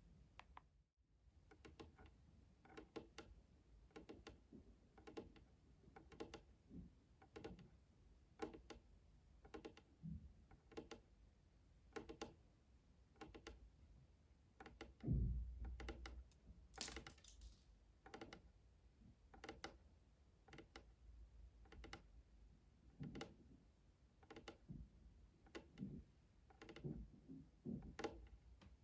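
Soft, irregular tapping and clicking, roughly one or two taps a second, as ASMR trigger sounds, with a louder thump about halfway through and a brief swish just after it.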